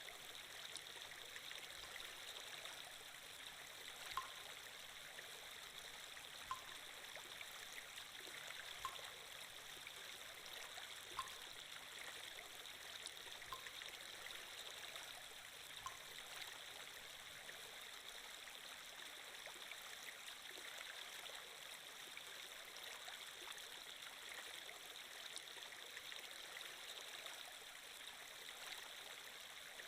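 Faint, steady trickling stream from a water-flow sound effect. Short soft plinks come about every two and a half seconds during the first half.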